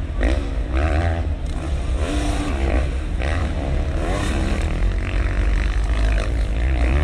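450cc motocross bikes' engines revving hard on the track, pitch climbing and dropping several times as riders accelerate and shift, over a steady low rumble.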